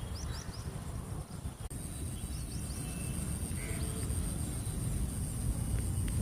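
Outdoor morning ambience: a low rumble of wind on the microphone, a few short high bird chirps, and a steady high-pitched insect drone that grows louder about a quarter of the way in.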